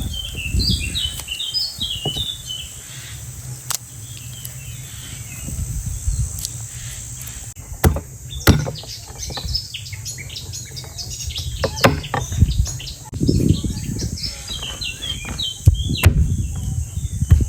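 Small birds chirping in quick, high, repeated notes, with scattered sharp knocks and low thumps of handling.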